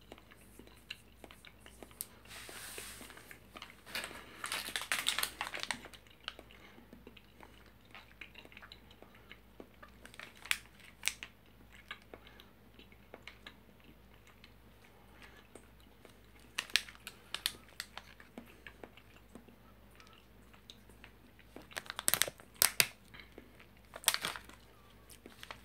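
Quiet chewing of a soft, sticky fruit energy chew: faint wet mouth clicks and smacks. A snack packet crinkles in the hand near the end.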